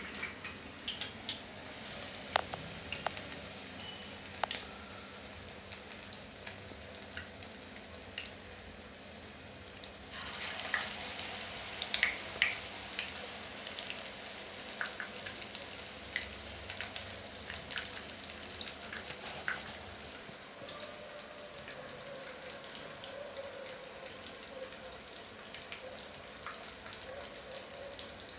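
Prawn vada patties shallow-frying in hot coconut oil in a frying pan: a steady sizzle with scattered sharp crackles and pops.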